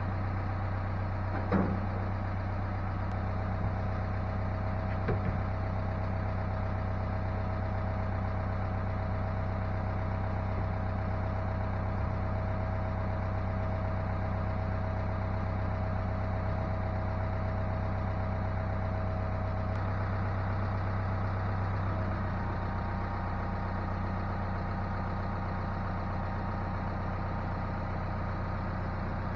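An engine idling steadily, an even low hum that does not change, with a couple of faint knocks near the start.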